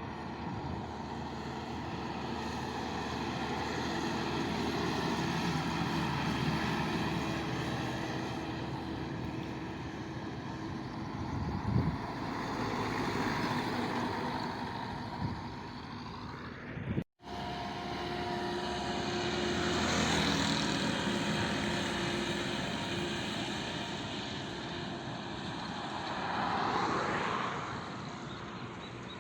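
Truck engine running with road noise, swelling and easing off several times. The sound cuts out completely for a moment about two-thirds of the way through.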